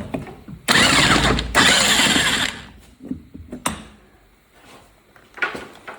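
Impact wrench rattling in two short bursts, about a second each, as it spins a bolt off the ATV's wheel hub, followed by a couple of light knocks.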